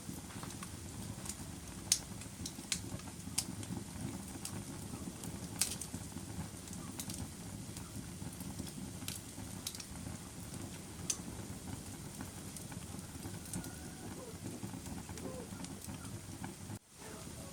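Wood fire burning in a fireplace: a steady low rumble of the flames with sharp, irregular crackles and pops from the burning wood. The sound drops out briefly near the end.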